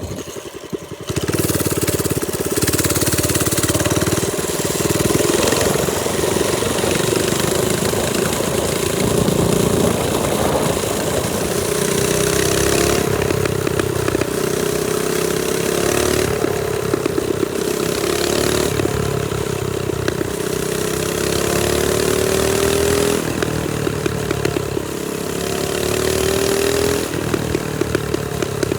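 Trailmaster Storm 200 minibike's single-cylinder four-stroke engine running under way, swelling about a second in. Its pitch climbs several times and drops back as the throttle is opened and let off.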